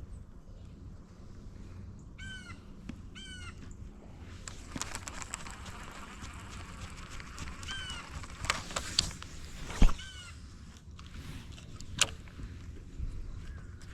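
Crows cawing in short runs of a few caws, twice early on and again about eight seconds in. Midway comes a stretch of hiss and small clicks, with a sharp knock about ten seconds in and another about twelve seconds in.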